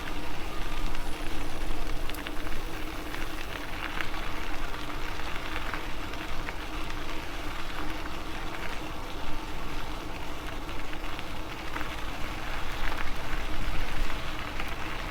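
Riding noise of an MS2 Dual Sport Ultra e-bike in motion: a steady crackling rush of tyres and air, with a steady low hum underneath.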